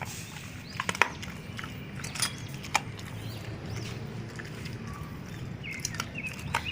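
Dogs chewing raw meaty bones: irregular sharp crunches and clicks, the loudest about a second in, with birds chirping faintly in the background.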